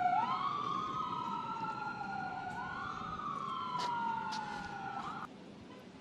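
Two emergency vehicle sirens wailing at once, each sweeping slowly up and down in pitch out of step with the other, cutting off suddenly about five seconds in.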